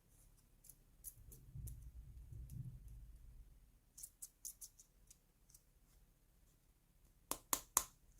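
Small plastic toy kitchen pieces clicking and tapping as they are handled: light scattered clicks with soft handling rustle, a quick run of clicks midway, and three sharp, louder clicks in quick succession near the end.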